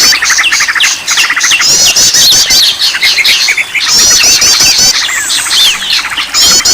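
Loud bird-lure recording of several songbirds calling over one another: fast trills, repeated down-slurred whistles and bursts of high, rapid chattering that come back about every two and a half seconds. It is the kind of mixed birdsong played to stir caged songbirds into singing.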